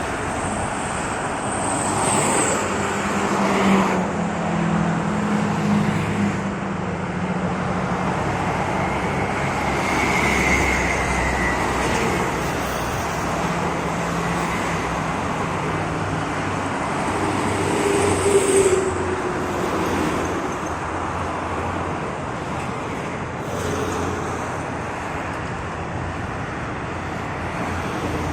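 Road traffic: a steady wash of tyre and engine noise from cars and trucks going by, with engine hums rising and fading as vehicles pass.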